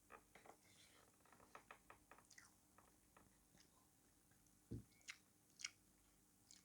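Faint close-up chewing: a person eating, with a run of small wet mouth clicks and smacks. A dull thump comes about three-quarters of the way through, followed by two sharper clicks.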